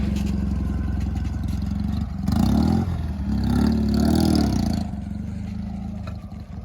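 Dnepr motorcycle's flat-twin engine running, revved up twice in the middle before dropping back to a lower, quieter run.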